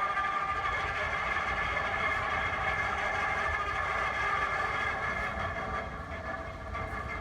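Swing bridge warning siren sounding a steady, even-pitched tone, easing off slightly in the last second, over a low rumble.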